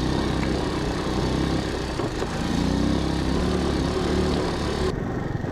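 Motorbike engine running as the bike rides up a bumpy dirt road, with rough rattling noise over the engine; the engine note rises about two and a half seconds in and holds for a couple of seconds.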